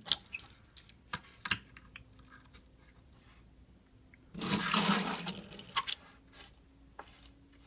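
Light clicks and taps of small die-cast metal toy cars being handled, with a louder rustling burst about four and a half seconds in.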